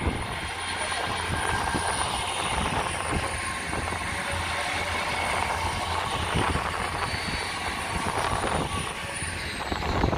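Hull Trains Class 802 bi-mode train passing along the through line: a steady rush of wheels on rail with a high whine that drops in pitch near the end as the last coach goes by.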